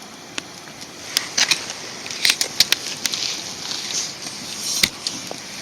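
Wood fire crackling: irregular sharp pops and snaps over a hiss that swells from about a second in and dies back near the end.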